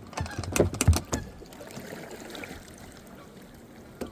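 Several sharp knocks and bumps against a kayak hull in the first second or so, then water lapping and trickling around the boat, with one more knock near the end.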